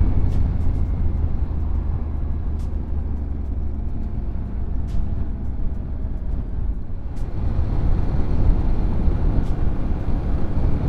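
Yamaha Ténéré 700 adventure motorcycle's parallel-twin engine running steadily under way, with road and wind noise, getting louder about seven seconds in.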